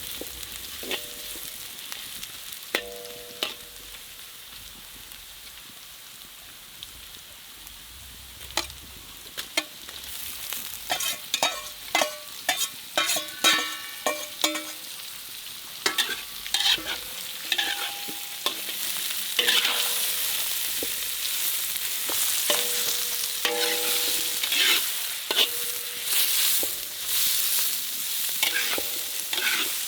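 Food sizzling in a frying pan while a metal spatula stirs it, scraping and clinking against the pan with short ringing knocks. The sizzle grows louder in the second half.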